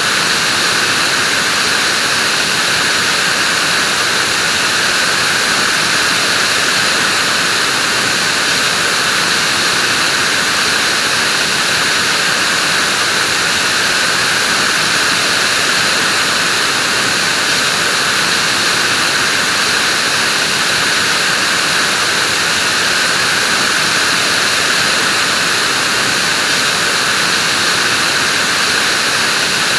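Vacuum cleaner running steadily: an even, unchanging rushing hiss.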